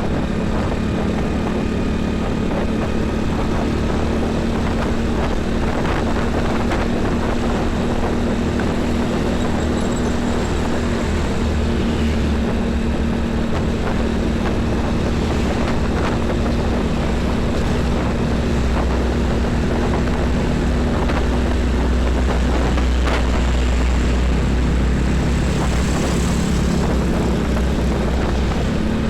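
Heavy diesel trucks running on a busy highway: a continuous low engine drone and rumble with tyre noise, getting a little louder toward the end as traffic passes close.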